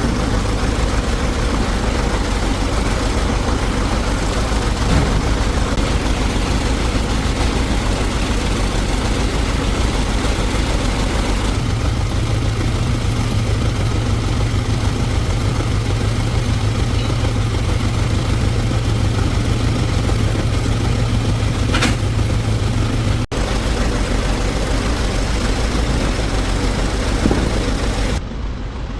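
Excavator's diesel engine running steadily at idle, its low hum growing stronger about halfway through.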